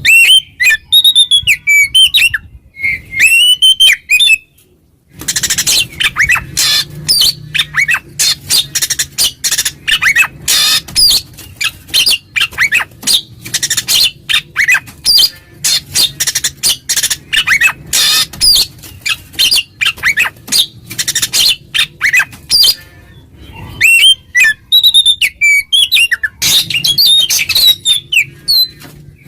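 Oriental magpie-robin (kacer) singing its loud 'ngeplong' territorial song, the kind that challenges a rival male. A few clear, gliding whistled phrases give way about five seconds in to a long, fast, dense run of sharp notes. The whistles come back briefly near the end before the rapid run resumes.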